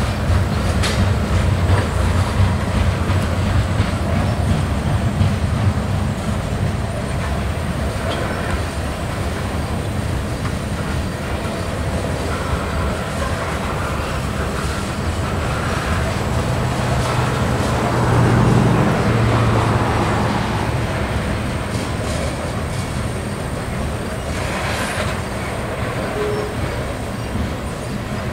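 Freight train of tank cars and covered hoppers rolling past, with the steady noise of steel wheels running on the rails. It swells louder for a couple of seconds about eighteen seconds in.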